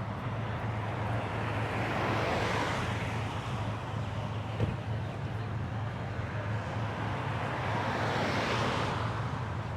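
Road traffic passing: two vehicles swell up and fade, one about two seconds in and one near the end, over a steady low engine hum. A single short click comes about halfway through.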